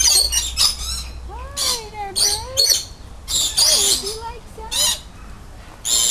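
Birds squawking: a string of harsh, shrill squawks, three in quick succession at the start, then more spaced about a second apart.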